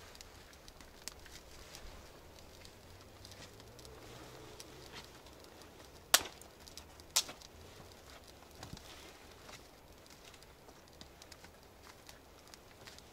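Campfire crackling quietly with scattered small pops, and two sharp knocks about six and seven seconds in, the loudest sounds.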